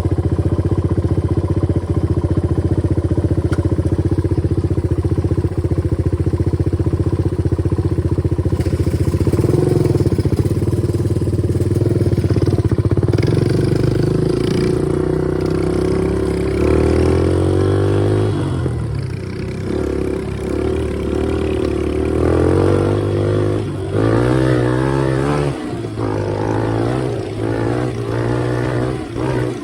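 Small dirt bike engine running under way, steady for the first half, then revving up and down repeatedly through the second half as the throttle is worked and gears change.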